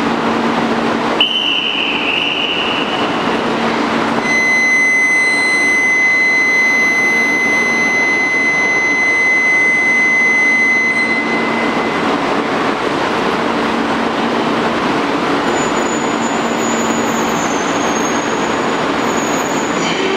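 E2 series Shinkansen train pulling out of the platform, its running noise building from about halfway through, with a faint high motor whine near the end as it gathers speed. Before it moves, a steady high electronic tone sounds for about seven seconds over the hum of the standing train.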